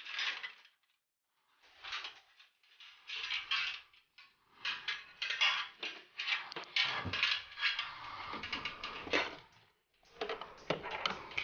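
Hard objects being handled, clattering and clicking in several bursts, the longest run in the middle.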